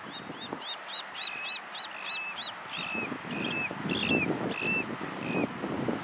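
A bird calling in a quick series of short, high, arching notes, about four a second, which grow louder and turn into longer, flatter notes about halfway through, stopping shortly before the end. A low, uneven rumble of noise runs underneath.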